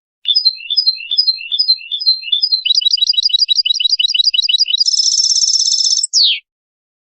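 Goldfinch × canary hybrid (mule) singing one song phrase: a few slow, evenly spaced down-slurred notes, then a quicker run of repeated notes, then a dense rapid trill, ending in one downward sweep. The song starts and stops abruptly against silence, as a training recording for teaching young birds to sing.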